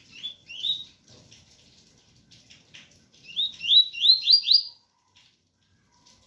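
Double-collared seedeater (coleiro) singing its 'tui-tui' song: two rising whistled notes near the start, then a quick run of five rising notes near the middle, over a faint steady hiss of rain.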